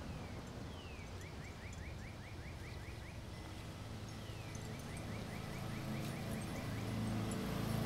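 A songbird sings two phrases, each a falling slurred note followed by a quick trill of about ten short rising notes, over a low steady background rumble that grows louder near the end.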